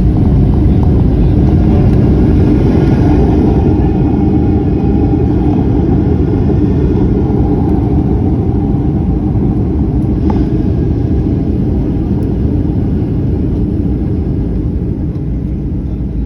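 Airliner landing: a loud, steady rumble of engines and runway that fades slowly as the aircraft slows.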